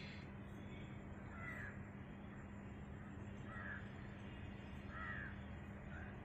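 A bird calling faintly four times, short calls a second or two apart, over a steady low hum.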